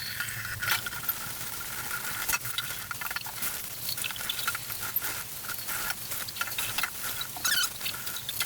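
Sage Bambino Plus espresso machine running its cleaning cycle: a steady low hum under an irregular crackling sizzle of water and steam spitting through it.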